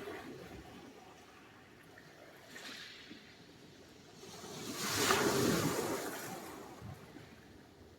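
Sea surf on the shore: a small wave washes in about two and a half seconds in, then a larger wave breaks about five seconds in and rushes out with a spreading hiss that fades away.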